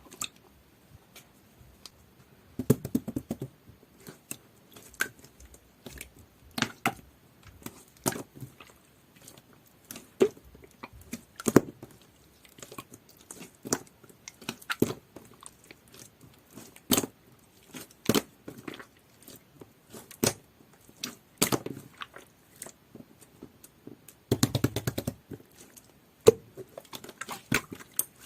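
Clear, jelly-textured slime being pressed and pulled by hand, giving sharp wet clicks and pops about once a second, with denser runs of squishing a few seconds in and near the end.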